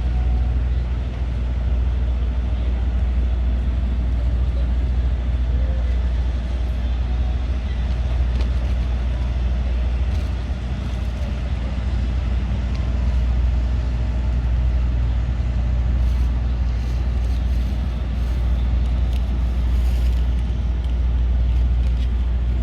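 Steady low mechanical drone, an engine or large machine running without change.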